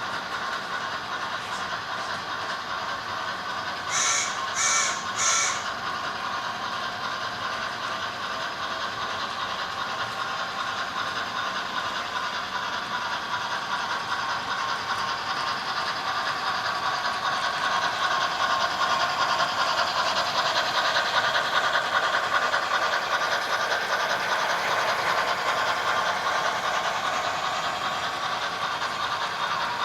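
HO-scale model steam locomotives in a doubleheader running past, with a steady running sound that grows louder about two-thirds of the way through. Three short whistle toots come about four seconds in.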